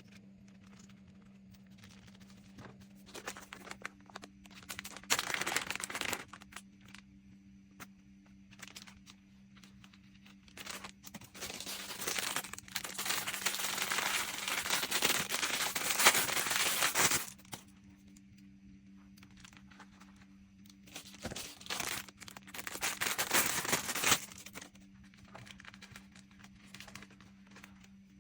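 Packaging crinkling and rustling in bursts as it is handled, the longest lasting about five seconds in the middle, with light clicks and taps between.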